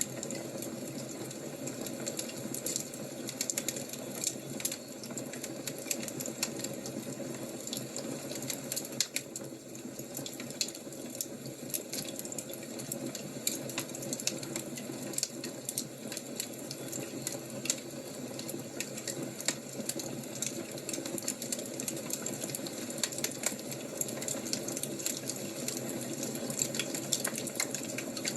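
Fire crackling: a steady hiss dotted with many small, sharp crackles and pops.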